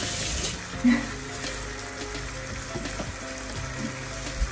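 Minced meat sizzling steadily as it fries in a pan, with a short sharp sound about a second in and a low thump near the end.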